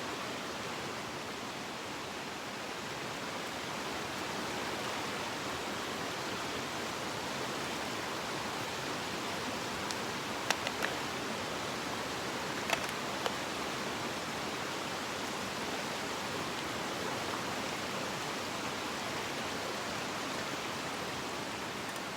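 Mountain stream flowing: a steady rush of water, with a few sharp clicks or knocks about halfway through.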